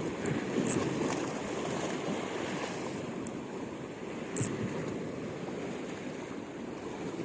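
Strong wind buffeting the microphone over surf washing on the shore, as a steady rushing noise, with a few short sharp clicks.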